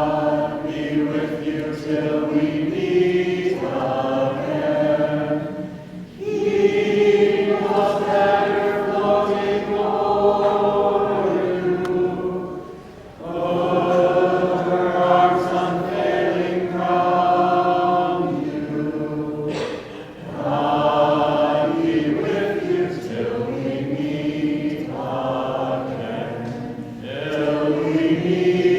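Group of voices singing together in a choir, in long held phrases of several seconds each with short breaks between them.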